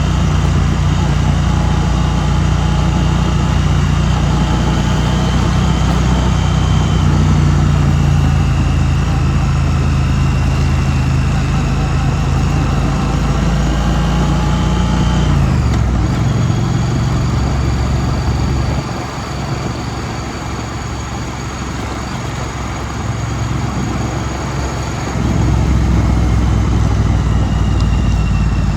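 2016 Triumph Street Twin's 900 cc parallel-twin engine running steadily under way. About halfway through, the revs drop as it slows, and it goes quieter for several seconds before it picks up again near the end.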